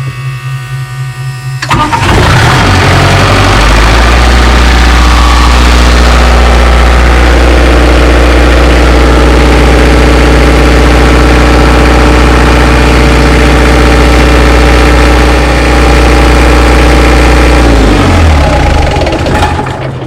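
Engine cranked and started after an oil and filter change, running steadily for about sixteen seconds to circulate the fresh oil and fill the new filter, then shut down near the end.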